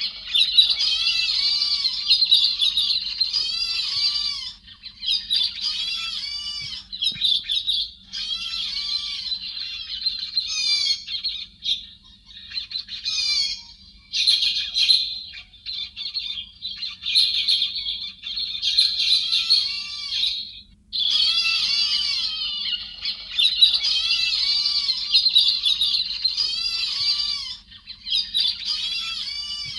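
Recorded calls of the héc xoan bird, a lure call for trapping: long runs of rapid, chattering, high-pitched arched notes, broken now and then by short pauses.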